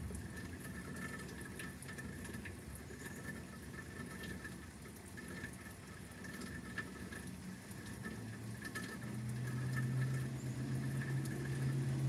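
Rain pattering steadily, with scattered drips and a faint steady high tone. About eight seconds in, a low steady hum comes in and grows louder toward the end.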